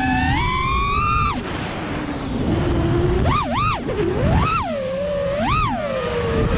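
FPV quadcopter's brushless 2207 motors and propellers whining, the pitch rising and falling with the throttle. The throttle is chopped about a second in, leaving mostly prop wash and air noise. It is then punched in quick bursts, giving sharp rising-and-falling whines about three and a half seconds in and again twice near the end.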